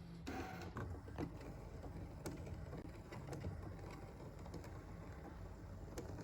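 Brother ScanNCut SDX1500 cutting machine running while it cuts felt: a low, steady motor hum with scattered light clicks.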